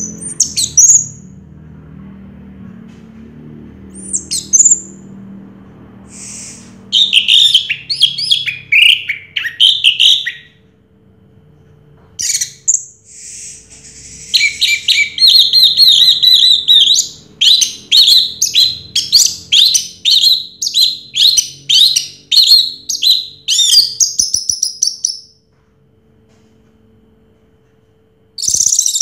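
Orange-headed thrush singing: a few short whistled calls, then long runs of rapid, varied notes from about seven seconds in. It falls silent for about three seconds near the end, then starts again, over a faint steady hum.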